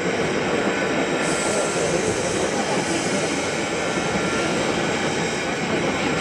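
Steam locomotive C57 1 making a steady, loud rushing roar of steam.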